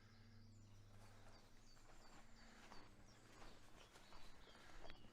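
Faint footsteps on a woodland path, starting about a second and a half in, with small birds chirping now and then in the background.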